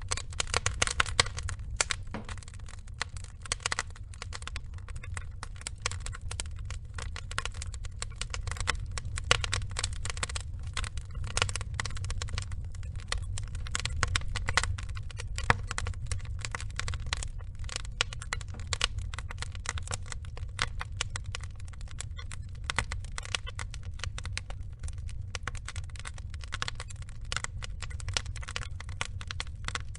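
Wood logs burning in a fire, crackling and popping continuously in dense, irregular clicks, with a few louder pops, over a steady low rumble of the flames.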